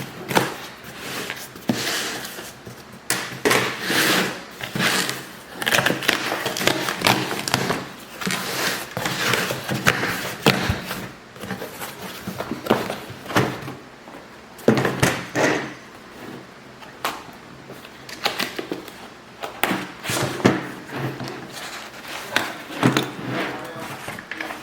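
Close handling noises: irregular rustling, clattering and light knocks of objects being picked up and moved about, with no steady rhythm.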